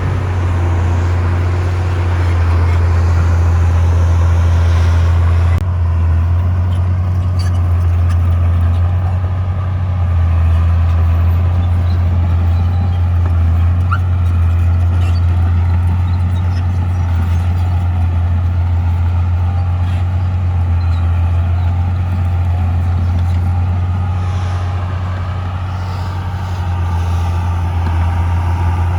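Heavy construction machine's diesel engine running steadily with a strong low drone, its level rising and falling a little as it works.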